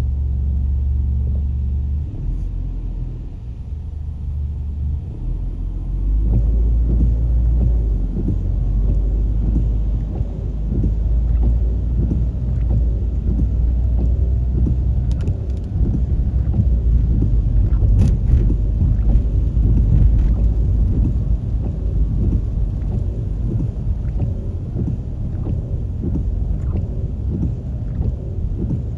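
Low rumble of a vehicle engine and road noise while driving, the engine note shifting pitch a couple of times, with scattered low thuds.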